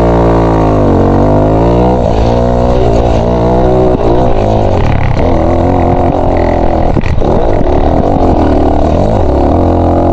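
Dirt bike engine revving up and down as it is ridden, its pitch rising and falling repeatedly, with a sharp knock about seven seconds in.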